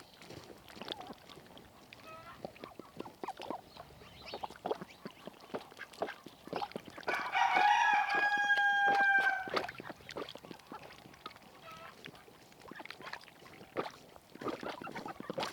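A rooster crowing once, a long held call with a slight fall at the end, about halfway through. Around it is a scatter of small clicks and taps.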